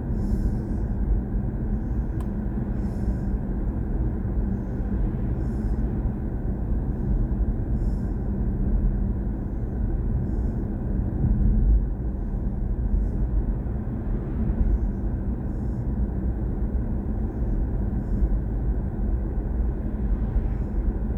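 BMW i4 M50 electric car on the move: a steady low rumble of road and tyre noise, with no engine sound.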